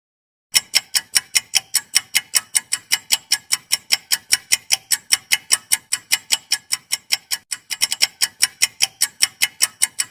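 Clock-ticking sound effect: sharp, evenly spaced ticks, about four a second, starting about half a second in. It is a countdown timer giving time to answer a quiz question.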